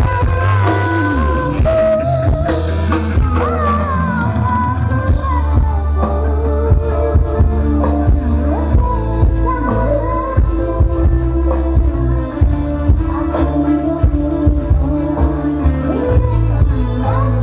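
A song with a singing voice and heavy bass, played loud through a demo sound system's speakers and subwoofer.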